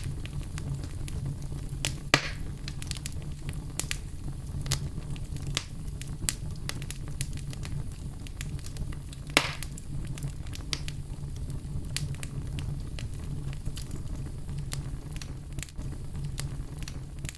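Wood fire burning in a fireplace: a steady low rumble with frequent small crackles, and two louder pops, about two seconds in and just past halfway.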